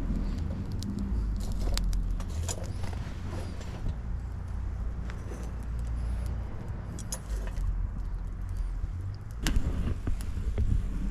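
Wind buffeting the microphone as an uneven low rumble, with scattered sharp clicks and snaps throughout.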